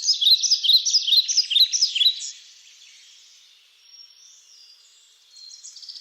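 A songbird singing: a quick run of high-pitched repeated chirping notes that stops a little past two seconds in, then a trilled phrase that starts near the end.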